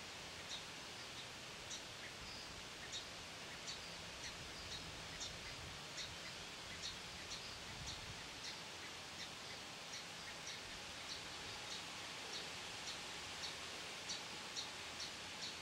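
Short, high bird chips repeated about every half second over a steady hiss.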